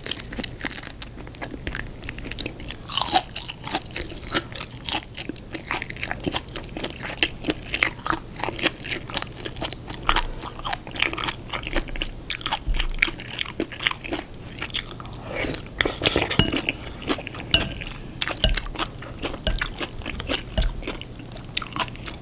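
Close-miked biting and chewing of a kielbasa sausage, a dense run of sharp, irregular crackling clicks as the thick, tough casing is chewed.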